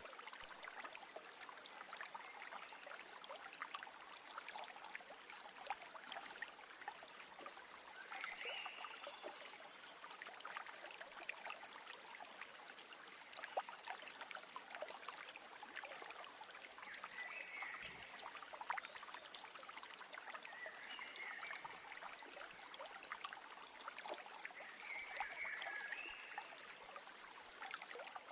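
Stream water trickling and babbling steadily, with short bird calls every few seconds.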